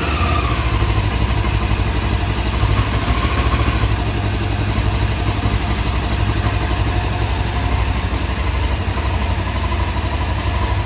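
Honda CBF500's parallel-twin engine idling steadily, warming up on its first run after winter storage.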